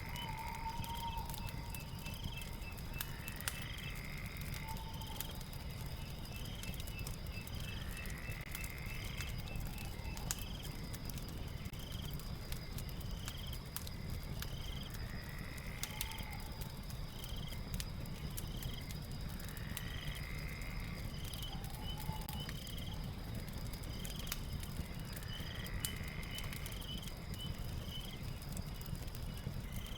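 Night ambience of a crackling fire with a low rumble, under a steady high insect drone, cricket chirps repeating about once a second, and a frog call that comes back every four to six seconds.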